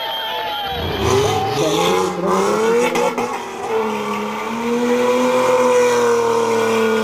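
Rally car engine driven hard: the revs drop sharply about a second in, then climb again with a couple of short cracks around the gear changes, and hold high and fairly steady through the second half.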